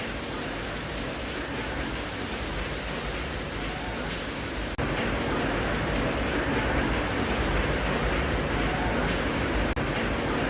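Steady rain noise, an even hiss with no separate drops standing out. About halfway through it cuts out for an instant and comes back a little louder and slightly changed in tone, and it drops out briefly once more near the end, like joins between looped recordings.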